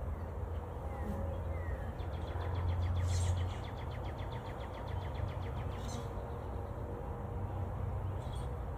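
Birds calling: a couple of short falling chirps about a second in, then a fast trill from about two to three and a half seconds in, over a steady low rumble.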